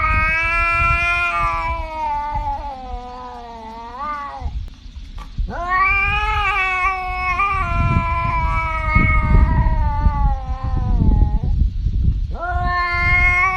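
A cat yowling in three long, drawn-out calls, the pitch wavering and sagging through each one.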